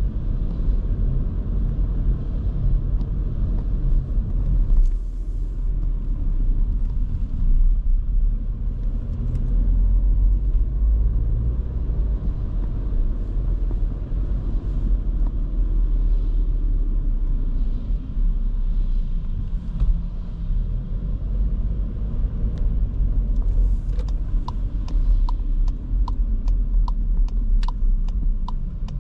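A 2023 Škoda Kamiq 1.0 TSI driving in town: steady low rumble from its three-cylinder petrol engine and the road. About 24 seconds in, a regular ticking starts at about two clicks a second: the turn-signal indicator.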